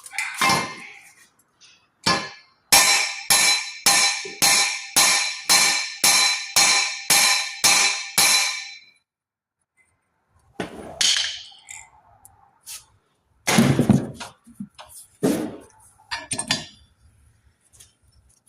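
A 3-lb mallet hammering a seized exhaust stud to shock its rusted threads loose: a run of about a dozen hard blows, roughly two a second, each with a metallic ring. A few scattered knocks and clinks follow after a pause.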